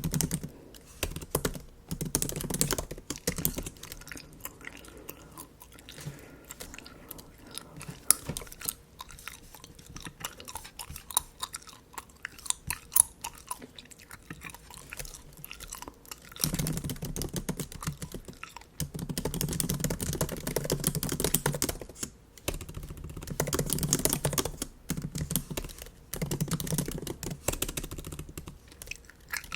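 Typing on a MacBook keyboard, mixed with bubble gum being chewed close to the microphone. The keystrokes are scattered in the first half and come in fast runs in the second half.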